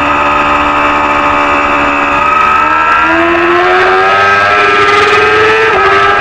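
Small-displacement supersport racing motorcycle engine running at high revs. Its pitch holds steady for the first few seconds, climbs from about three seconds in, and dips briefly near the end.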